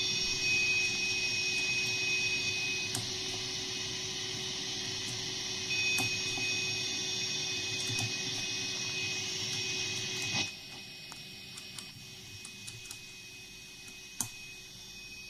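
Self-noise from a TC-Helicon VoiceLive 3 effects pedal: a steady hiss with a thin high whine and a low hum, produced by the pedal itself with the guitar's volume off, a fault. The hiss and whine cut off suddenly about ten seconds in, leaving a much quieter background with a few faint clicks.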